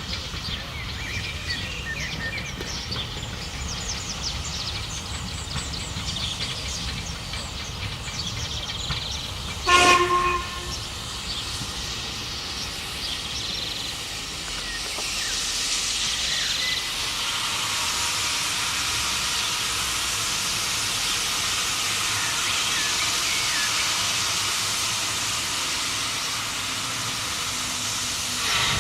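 Steam train running with a steady low rumble, one short whistle blast about ten seconds in, then a loud hiss of steam rising from about fifteen seconds on.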